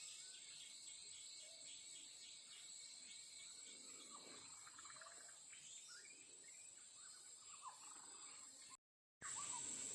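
Faint forest ambience: a steady, high-pitched insect chorus with scattered faint bird chirps. Near the end the sound drops out briefly, then comes back slightly louder.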